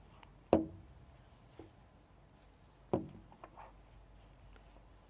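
Handling knocks as a diesel fuel injector is picked up and set down on a tabletop: two sharp knocks, about half a second and three seconds in, with a few lighter taps and rubs between them.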